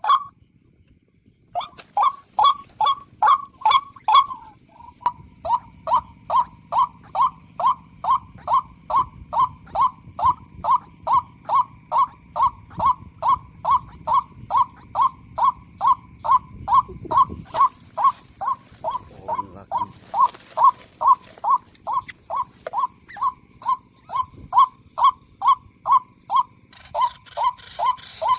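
White-breasted waterhen call played as a trapping lure: a monotonous series of 'kwak' notes, about two a second, that breaks off for about a second near the start and then resumes steadily.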